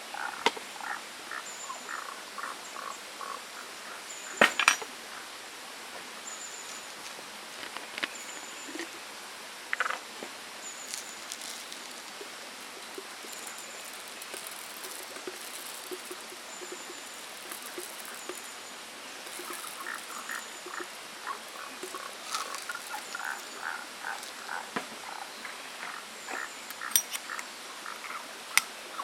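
Frogs calling in rapid series of short pulses over the steady rush of a small stream, with a faint high chirp repeating about once a second and a few sharp clicks.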